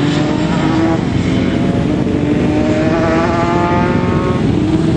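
Racing motorcycle engine running hard, its pitch climbing steadily for a couple of seconds about halfway through.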